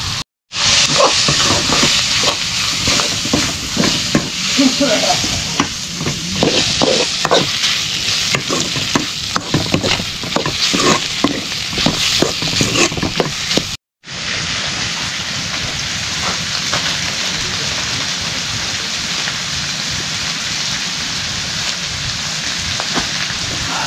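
Pieces of broiler chicken sizzling in a metal karahi, with a spoon scraping and clattering against the pan as it is stirred. The sound drops out briefly twice, just after the start and about halfway through; after the second break the sizzling goes on steadily with little scraping.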